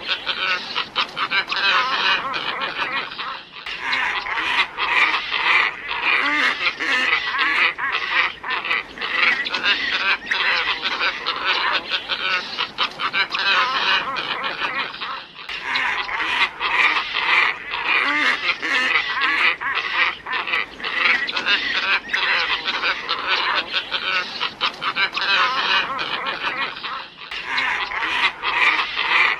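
Glossy ibis flock calls, many loud overlapping calls, played as a lure recording. The recording repeats, with a brief break about every twelve seconds.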